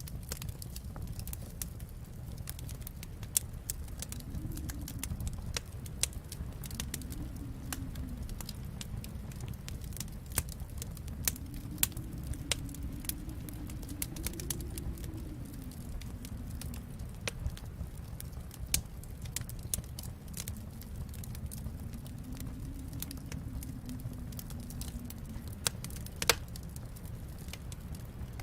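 Wood fire crackling in a fireplace: irregular sharp pops and snaps over a steady low rumble, with a soft low tone that swells and fades every few seconds.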